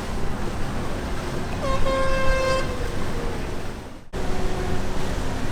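A boat horn gives one blast of about a second, a steady tone with a short upward slide at its start, over a constant low rumble of motor and wind. Near the end the sound briefly drops out.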